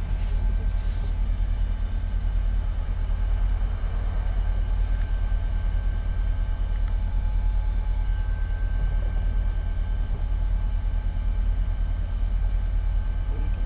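Steady low engine rumble with faint steady whining tones above it, unchanging throughout.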